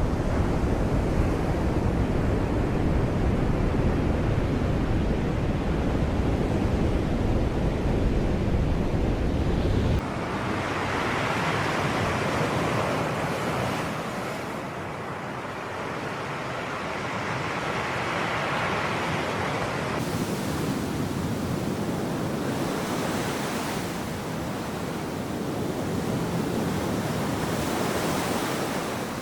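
Sea surf washing in as a steady rushing, with a low wind rumble on the microphone through the first third. The sound changes abruptly twice, and in the middle a wave swells and fades.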